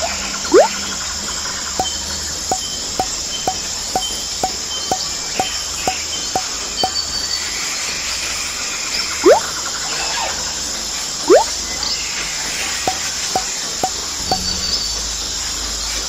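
Background ambience of insect and bird-like sounds: a steady chirring hiss, a few loud rising whistles, and runs of short chirps at about two a second.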